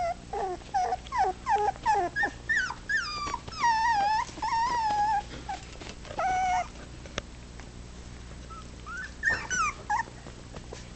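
Four-week-old puppies whimpering and yipping: a run of short high cries, a couple drawn out for about a second, then a few seconds' lull and a few more cries near the end.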